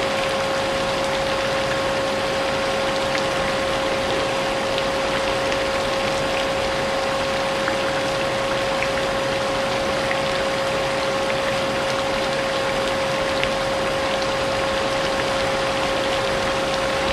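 Vacuum cleaner running steadily, its motor holding one constant whine over a wide hiss, mixed with a steady patter of rain.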